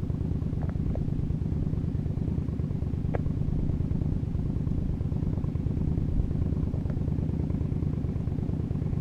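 Motorcycle engine running at a steady cruising speed, an even drone that holds without rising or falling.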